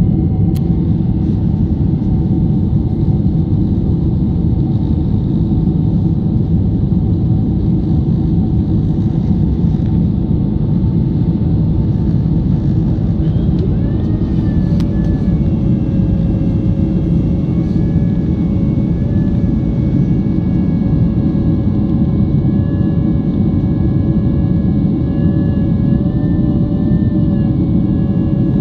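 Loud, steady rumble of a passenger airliner's engines and rushing air heard inside the cabin, with faint whining engine tones coming in about halfway through.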